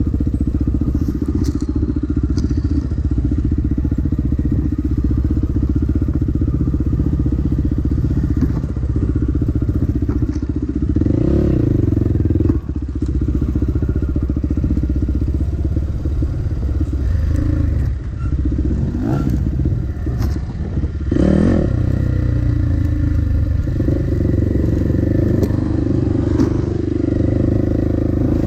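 Dirt bike engine running as the bike is ridden, the throttle opening and easing off, with a sudden drop about twelve seconds in and brief lulls later on.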